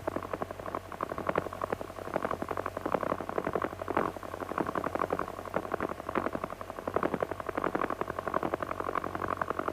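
Light aircraft's piston engine running at low power, heard through the cockpit intercom as a rapid, uneven pulsing over a steady hum.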